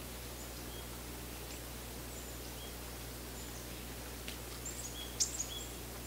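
Short, high chirps and squeaks of small birds scattered over a steady low background hum, with a cluster of louder chirps about five seconds in.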